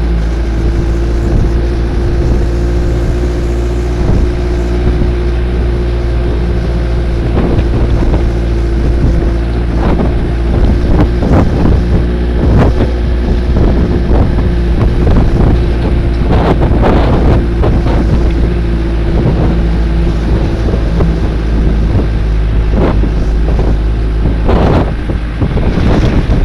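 Engine of a moving road vehicle running steadily, with wind buffeting the microphone, the gusts heavier in the second half.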